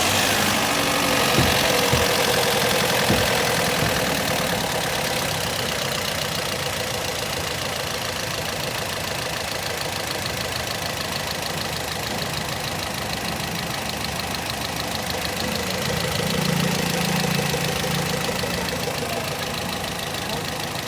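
Toyota Corolla GLi petrol engine idling just after a start, with a fast, even ticking from the valve train over the running: tappet noise, the sound problem being chased with a tappet setting. A few sharp knocks sound in the first three seconds.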